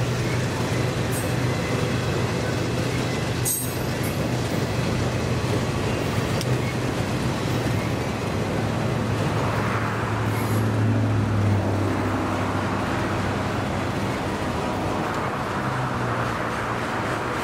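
Freight train of enclosed autorack cars rolling past: a steady rumble of steel wheels on the rails, with a few faint sharp clicks.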